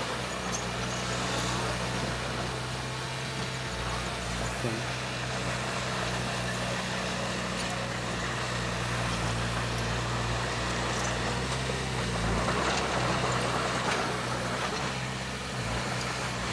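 Diesel engine of heavy earthmoving machinery running steadily, getting a little louder about twelve seconds in.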